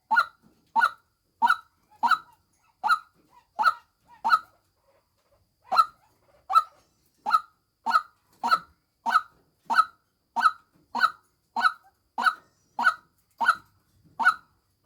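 White-breasted waterhen calling a lure call: a long run of short, sharp, loud notes at about one and a half per second, with one brief pause about four and a half seconds in.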